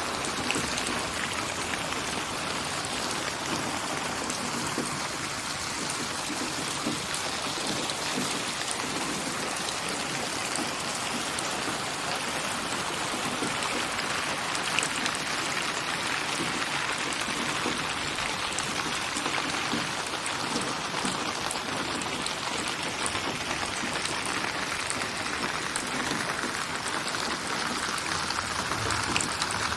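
Steady rain white noise: a dense, even hiss of falling rain flecked with many small drop ticks. It is a virtual rain soundscape built from hundreds of rain samples and spatialised with HRTF so the drops seem to come from around the listener.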